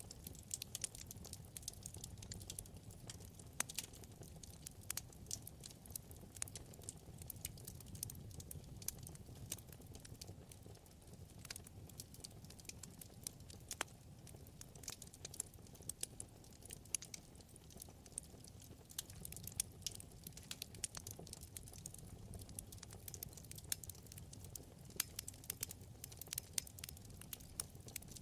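Wood fire crackling in a fireplace: a steady scatter of small sharp pops and snaps over a low, soft flame rumble.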